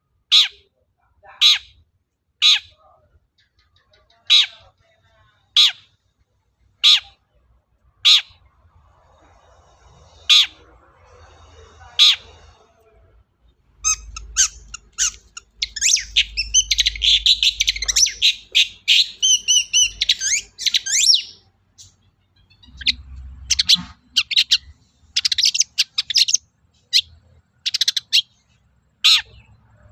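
Long-tailed shrike (cendet) giving loud, sharp, harsh single calls about once a second. Near the middle these break into several seconds of fast, varied chattering song, then go back to single sharp calls.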